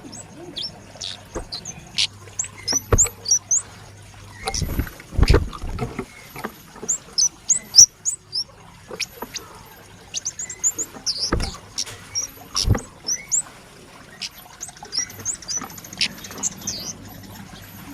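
Kemade, a small red-headed flowerpecker, calling in rapid runs of short, high-pitched chirps and twitters. Several dull knocks and thumps come in between, the loudest about five seconds in and again around eleven and thirteen seconds.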